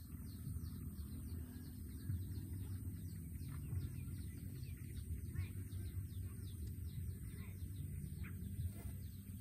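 Small birds chirping in the background, a rapid run of short falling chirps with a few louder calls scattered through, over a steady low rumble.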